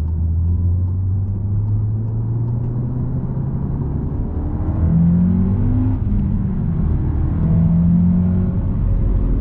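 Mk7 Volkswagen Golf R's turbocharged 2.0-litre four-cylinder engine pulling hard under full acceleration. The pitch climbs steadily, drops at a gear change about four seconds in and again around six seconds, then climbs again.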